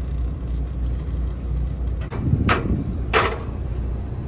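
Two sharp clanks of kitchenware, about two and a half and three seconds in, over a steady low hum.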